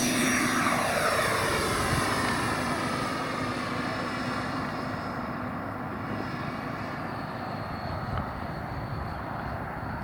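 Twin 90 mm electric ducted fans of a radio-controlled Me 262 jet model flying past. The high-pitched whine drops in pitch over the first few seconds as the jet goes by, then fades to a steady, quieter rush.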